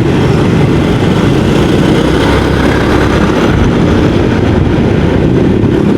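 Yamaha XMAX 250 scooter's single-cylinder engine running on the move, buried under steady heavy wind rumble on the microphone.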